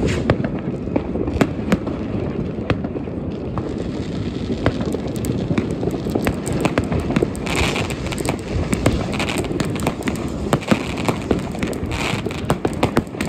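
Massed New Year's Eve fireworks, rockets, cake batteries and firecrackers going off at once: a continuous rumble of bangs with many sharp cracks, and bursts of crackling in the second half.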